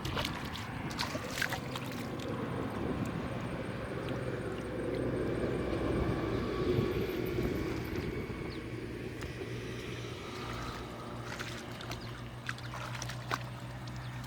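Water sloshing and gurgling, with a few sharp knocks.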